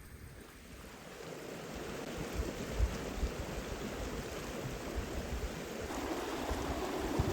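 Steady rush of flowing river water, growing louder about a second in, with low rumbling bumps from wind or handling on the microphone.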